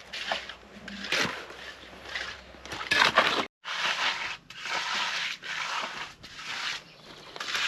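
Repeated gritty scraping strokes of hand tools working through wet concrete, cutting out briefly about halfway through.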